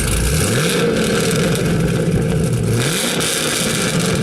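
Car engine revved twice: the note rises quickly about half a second in, falls back, then climbs again about two and a half seconds in and is held high before dropping.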